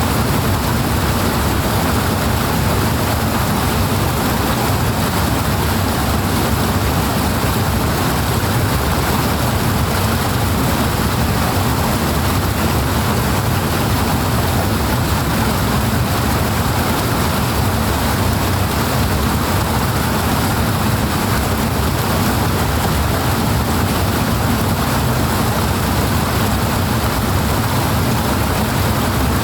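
Powerful rushing water, a steady, unbroken wash of noise with a deep low rumble and no change in level.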